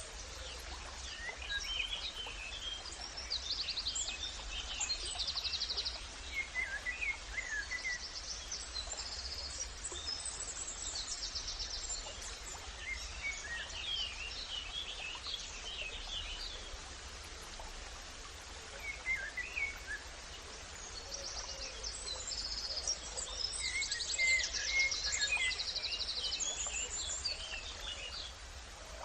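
Several wild birds chirping and singing, with short calls and quick trills in clusters that come and go, over a steady low rumble.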